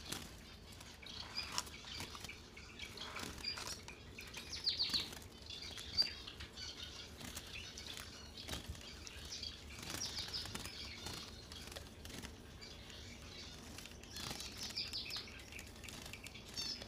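A small cage bird chirping softly in short clusters, over faint scratching, pattering and light taps as fine sand is sifted through a small mesh sieve in the cage's bottom tray. One sharper tap stands out about six seconds in.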